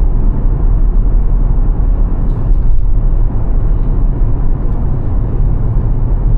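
Steady low rumble of a car driving, the road and wind noise heard from inside the moving car.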